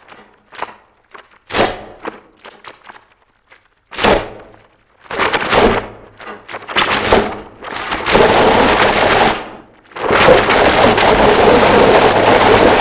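Harsh noise music: abrupt distorted noise stabs, sparse at first, then coming thicker until they merge into a continuous wall of harsh static about eight seconds in. It breaks off briefly near the ten-second mark and comes back as a solid wall.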